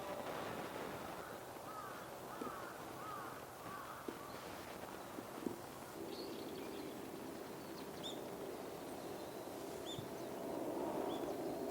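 Wild birds calling: a quick run of about five short falling calls a couple of seconds in, then thin high-pitched calls at intervals, over a steady low background hum.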